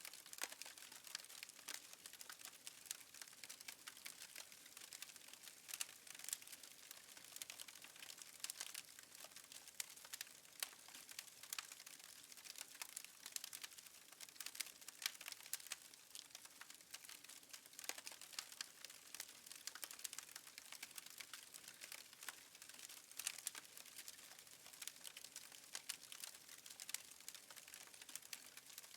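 Fireplace fire crackling faintly: a dense, irregular run of small snaps and pops over a soft hiss.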